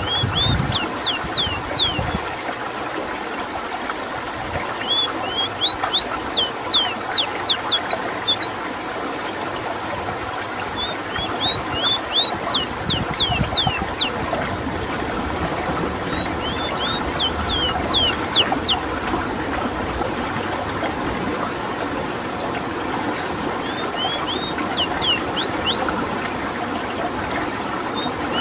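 Ruddy-breasted seedeater (Rowti) singing: five phrases, each a quick run of sharp, high sweeping notes lasting about two seconds, several seconds apart. Under them runs a steady rush of running water.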